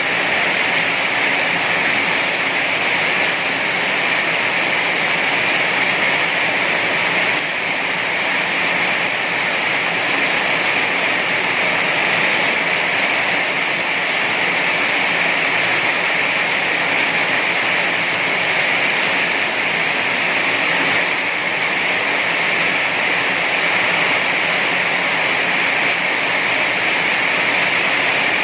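Heavy rain falling in a steady, dense hiss, with no separate drops standing out.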